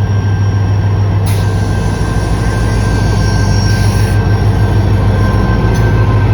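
A passenger train pulling away slowly on the next track: a steady low drone with a faint higher whine, growing slightly louder.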